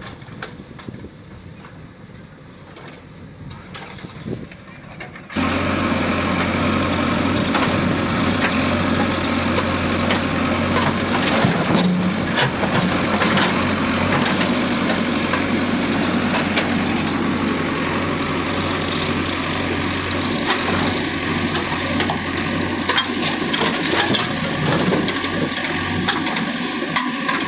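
A heavy vehicle's engine rumbling low, then suddenly much louder about five seconds in, running steadily.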